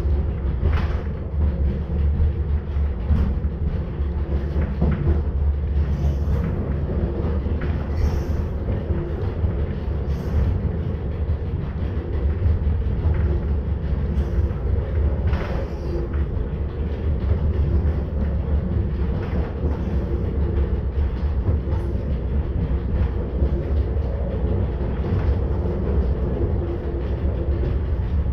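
Narrow-gauge electric rack-railway train running steadily, heard from the driver's cab: a continuous low rumble and motor hum, with irregular clicks from the wheels on the track every couple of seconds.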